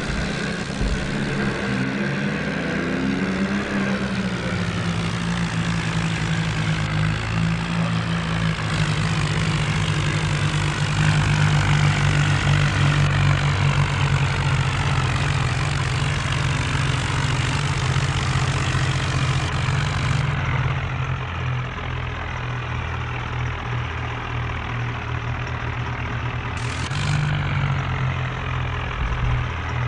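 Modified John Deere tractor's diesel engine running as a steady, deep drone, its pitch dipping a little about four seconds in and rising briefly near the end.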